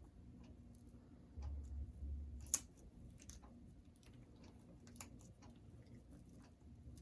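Congo African grey parrot chewing and tearing at a chew toy with its beak: irregular small clicks and snaps, with one sharp, loud crack about two and a half seconds in. A low rumble is heard for about a second just before the crack.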